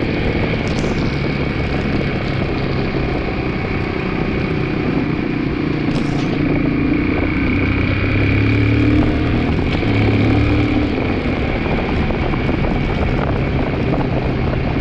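2002 Yamaha 225 outboard engine running steadily, with a few faint clicks.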